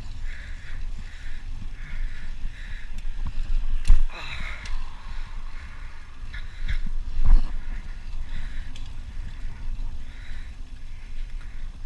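Wind buffeting the microphone on a moving bicycle, with a soft repeating tick about twice a second. A brief falling squeal comes about four seconds in, and a knock comes a few seconds later.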